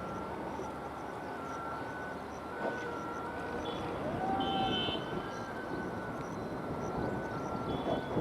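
Steady vehicle running noise, with a faint two-note warbling tone throughout and a short rising-and-falling horn-like tone about halfway through.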